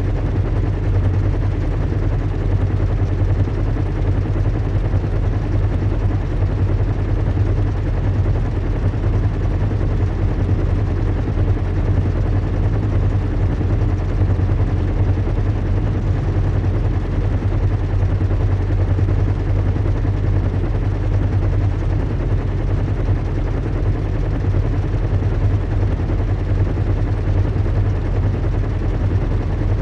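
Recreated ambience of a large airship (zeppelin) in flight: a steady, low hum with a hiss of air over it, unchanging throughout.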